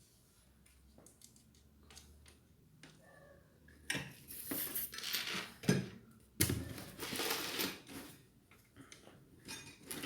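Clinks, rattles and rustling of ceiling fan parts being handled while the blades are assembled, busiest from about four seconds in.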